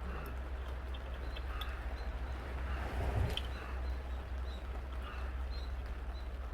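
Birds chirping in short, repeated high calls over a steady low rumble, with a brief louder rustling noise about three seconds in.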